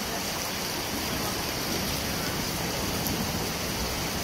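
Rain pouring onto standing water on a flooded pavement: a steady, even hiss of countless drops splashing.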